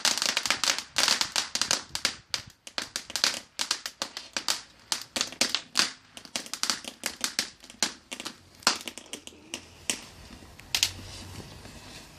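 Crackling fireworks: a dense run of rapid small pops and cracks that thins out in the second half, ending with a few single cracks about eleven seconds in.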